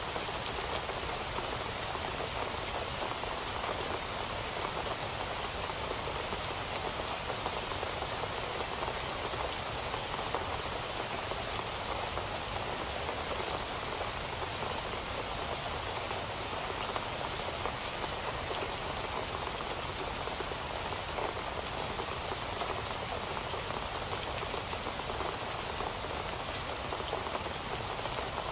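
Steady rain falling, a continuous hiss of many small drops pattering on a surface, even in level throughout.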